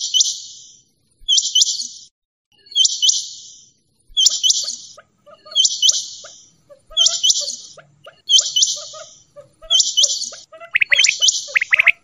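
Quail calling over and over: a short, sharp, high-pitched call repeated about every second and a half. From about four seconds in, fainter lower chirps run between the calls, and they grow louder near the end.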